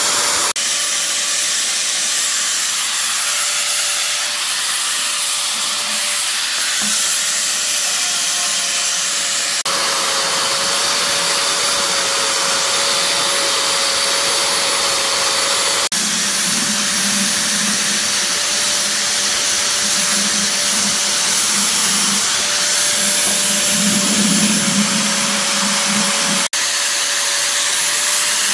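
A power tool running steadily, with a constant whine over a loud hissing rush, dropping out for an instant a few times.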